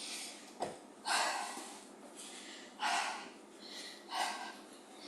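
A person breathing hard while recovering from cardio exercise: four heavy, breathy exhalations spaced about a second and a half apart. There is a single short knock about half a second in.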